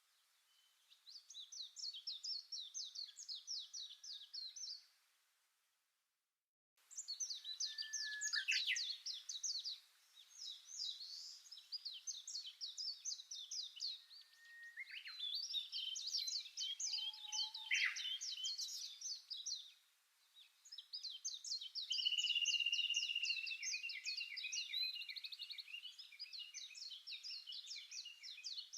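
Songbird singing in rapid chattering phrases of quick high notes, each a few seconds long with short pauses between. The sound cuts out completely for about two seconds near the five-second mark.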